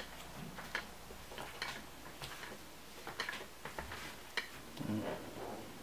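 Faint, scattered light clicks and taps: handling sounds as parts are worked through a freshly drilled hole in a sink cabinet.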